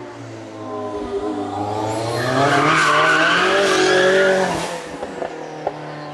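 Kimera EVO37's 2.1-litre twin-charged four-cylinder engine accelerating under power, its note rising and getting louder for about three seconds, then easing off about four and a half seconds in.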